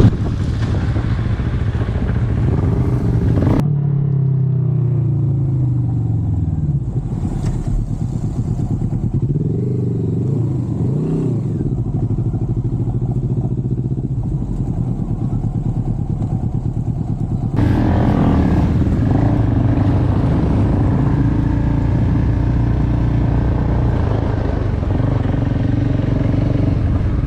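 Motorcycle engine running on the move. Its pitch falls as it slows about four seconds in, then rises and falls a couple of times, and it gets louder and noisier from about seventeen seconds in as it speeds up again.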